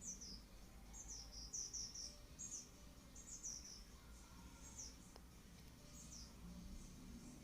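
Faint bird chirping: short, high chirps that slide downward in pitch, coming singly or in quick groups of two or three every second or so.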